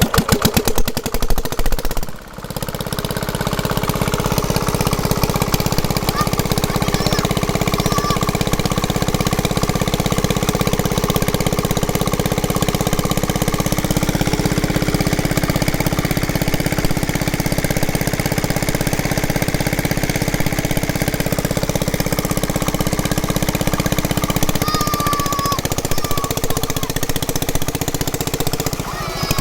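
A sewing machine running fast and steadily with a rapid, even chatter. It stutters at first, stops briefly about two seconds in, then picks up again and keeps running.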